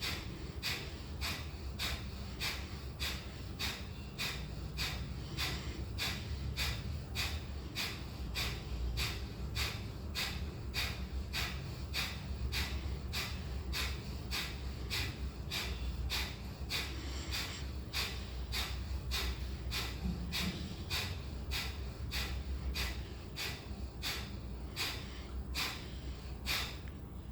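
Kapalbhati pranayama breathing: short, forceful exhalations snorted out through the nose in an even, quick rhythm of nearly two a second, each pulled by a sharp inward snap of the abdomen, with the inhalations passive and silent between them. The strokes stop shortly before the end as the round of 108 is completed.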